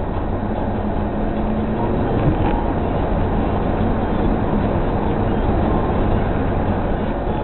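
Rally car engine running at a steady drone, heard from inside the car along with road noise.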